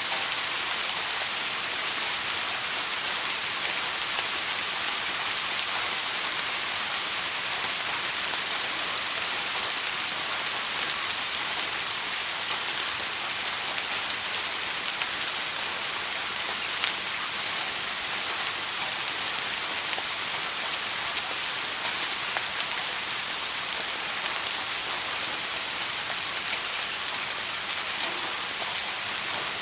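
Soft rain falling steadily, an even hiss with scattered faint drop ticks.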